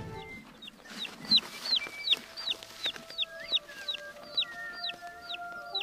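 A bird calling outdoors with a rapid string of short, high chirps, each falling in pitch, about three a second.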